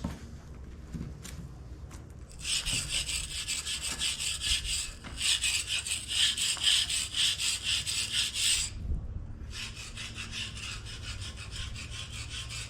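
Harsh scraping of packed dirt and oil off a cast-iron tractor counterweight, in three long passes of about three seconds each that start roughly two seconds in, over a low steady hum.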